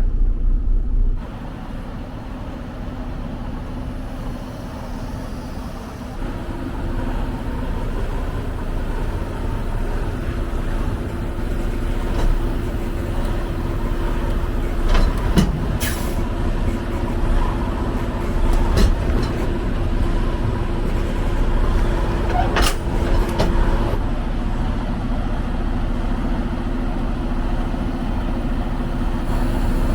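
Semi-truck diesel engine running as the truck moves at low speed, with a steady low rumble and a hum. A few short, sharp clicks come about halfway through.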